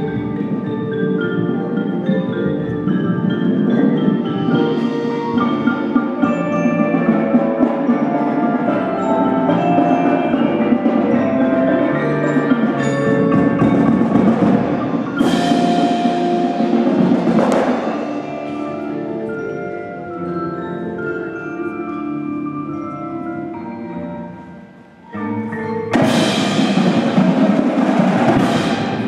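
High school indoor drumline's front ensemble of marimbas and other mallet keyboards playing a busy passage. Loud ringing hits come in about halfway through. The sound drops away briefly near the end, then the full ensemble comes back in with a loud hit.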